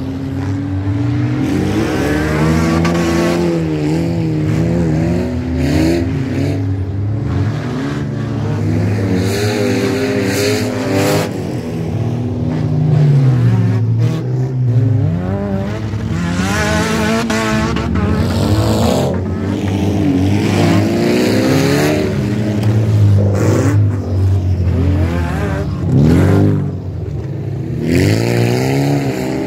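Engines of several old wreck-race cars running hard around a dirt track, more than one at once, their pitch rising and falling over and over as they rev up and ease off.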